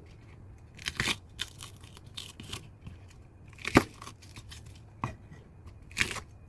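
Knife cutting vegetables on a cutting board: a handful of separate, irregular strokes about a second apart, the loudest a little before the middle.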